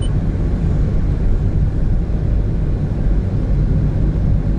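Steady low rumble of road and engine noise inside a 2017 Honda N-BOX Custom kei car, its 660 cc turbo three-cylinder engine running as it drives.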